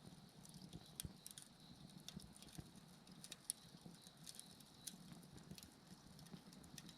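Wood bonfire crackling faintly, with scattered sharp pops, a strong one about three and a half seconds in. Insects chirp softly in the background.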